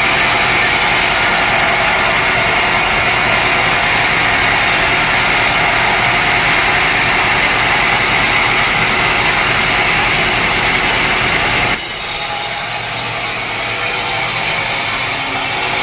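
Sawmill saw cutting through a dense teak log: a loud, steady, hissing cut that breaks off suddenly about twelve seconds in, leaving the machinery running more quietly.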